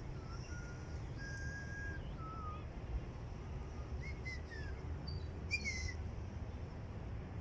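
Birds singing: a string of short, clear whistled notes, some held level and some gliding down, with a few higher chirps, over a steady low background rumble.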